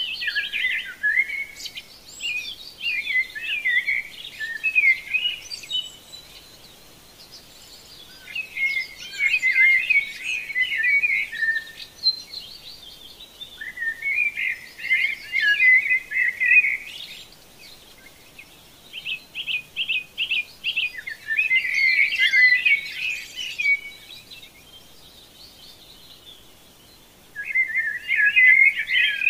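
Songbirds singing in bouts of busy, twittering phrases that come every few seconds, with a quick run of evenly spaced notes about two-thirds of the way through.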